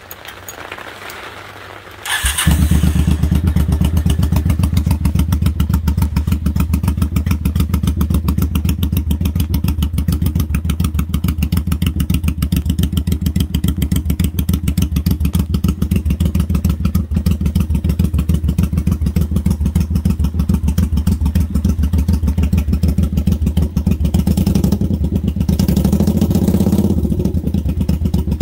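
1984 Honda Shadow VT700C V-twin engine catching about two seconds in, then running very loud and steady through cheap muffler tips slipped over the stock exhaust pipes. The engine picks up briefly near the end.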